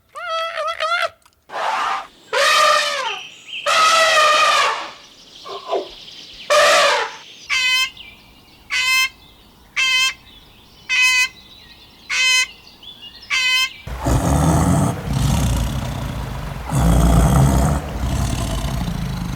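A series of animal calls: a few drawn-out, wavering cries, then a run of short, evenly spaced calls about one a second, then a longer, loud, rough, low stretch near the end.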